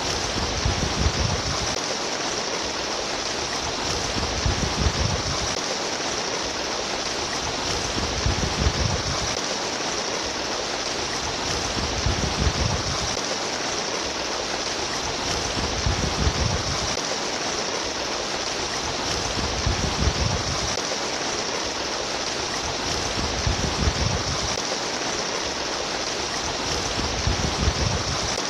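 Trickling, babbling water running steadily, with a low surge swelling up about every four seconds.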